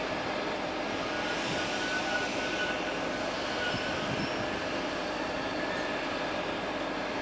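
Passenger train arriving at a station: a steady rumble of the carriages running on the rails, with faint high squealing tones over it.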